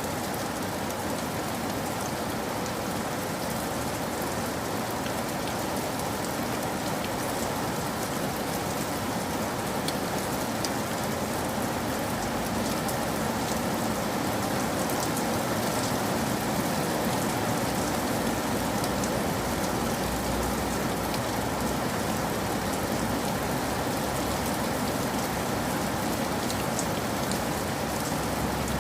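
Steady rain falling, an even hiss with scattered drop ticks; a faint low rumble joins about twelve seconds in.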